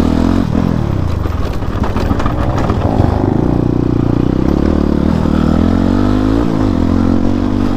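Motorcycle engine running under load on a rough off-road track, its pitch rising and falling with the throttle several times in the second half, with some clatter from the bike.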